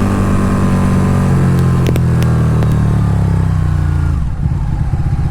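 Sportbike engine running while being ridden, heard through a small clip-on vlogging microphone. The engine note falls as the throttle is rolled off about four seconds in, dips briefly, then picks up again.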